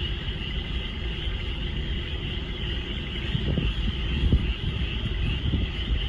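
A dense chorus of frogs calling together as a steady high-pitched trilling wall of sound, over a louder low rumble that swells a little around the middle.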